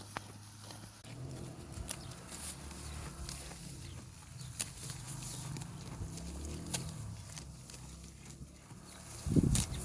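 Farm animals moving about, with scattered knocks and clicks and a short, loud, low-pitched sound near the end.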